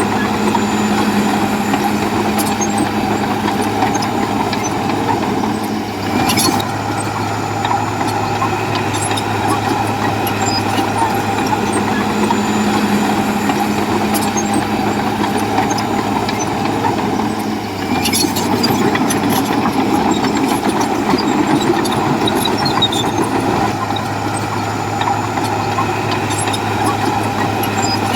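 Heavy diesel earthmoving machinery running steadily with a constant engine drone. There is a brief clatter about six seconds in and another around eighteen seconds.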